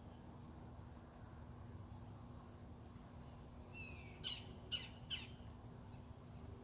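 Wild birds calling: faint scattered chirps, then a short falling call followed by three sharp calls in quick succession about four to five seconds in, over a steady low background hum.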